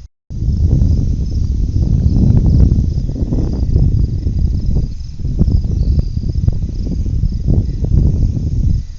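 Crickets chirping in a steady high trill under a loud, low, gusty rumble. The sound cuts out completely for a split second right at the start.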